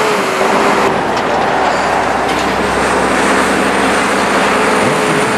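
A heavy vehicle running steadily, with a loud, even rush of noise and a steady whine that fades about a second in and returns near the end.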